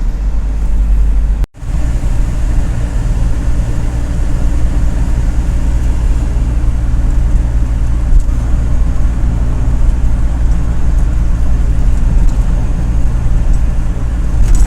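Steady engine and road noise inside a moving mini truck's cabin, heaviest in the low rumble. About a second and a half in it drops out for an instant, as at an edit cut, then carries on unchanged.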